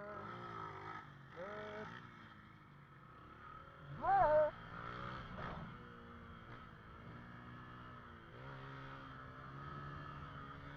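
Motorcycle engine revved in three short blips that rise and fall in pitch, the third, about four seconds in, the loudest, then running at a steady, even pitch.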